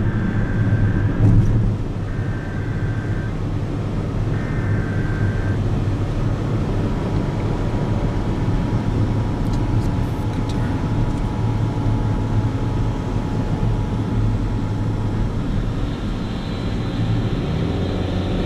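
NOAA Weather Radio emergency alert, heard faintly under a steady low rumble: three short data bursts of warbling tones in the first few seconds, then the long steady attention tone, which signals that a warning is about to be read.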